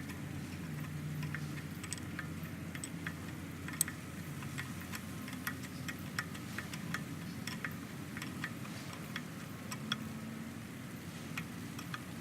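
Irregular light clicks and ticks, a few a second, over a low steady hum.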